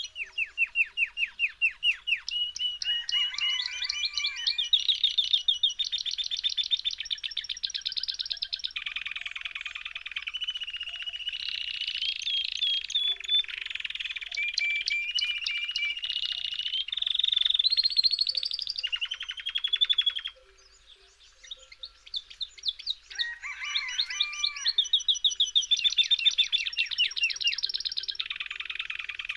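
A small songbird singing a long, continuous song of rapid trills and repeated chirps. It falls silent for a couple of seconds about two-thirds of the way through, then starts up again.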